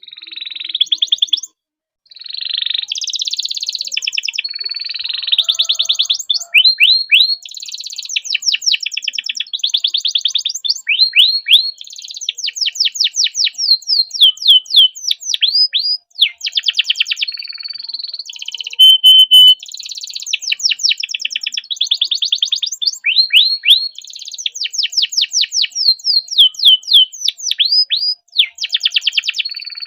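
Domestic canary singing a long, continuous song of fast trills and rolls: runs of rapidly repeated notes, many sweeping down in pitch, with a short break about two seconds in and another near the middle.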